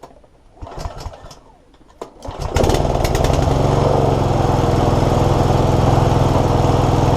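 Sovereign XSZ40 self-propelled petrol lawnmower engine running at a steady speed. It comes in suddenly, loud, a little over two seconds in, after a few faint knocks and rustles.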